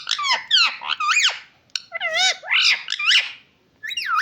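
Parrot vocalising in a rapid string of high, sharply swooping squawk-like syllables, with a short pause a little before the end.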